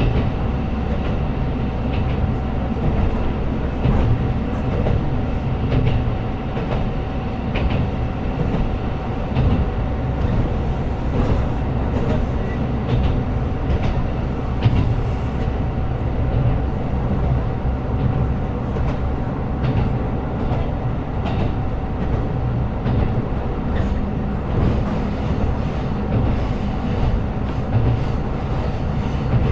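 KiHa 125 diesel railcar running along the line: a steady low rumble with a constant whine, and scattered clicks of the wheels over rail joints.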